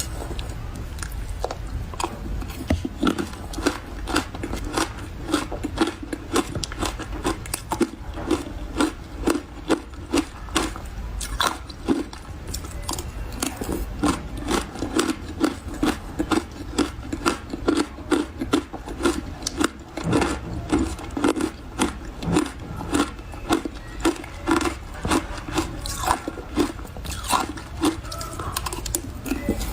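Mouthfuls of refrozen powdery ice being chewed: a steady run of soft crunches, about two a second.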